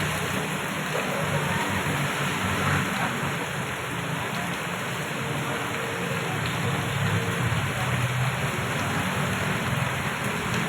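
Heavy rain pouring steadily, with the low hum of cars and motorbikes passing on the wet road underneath.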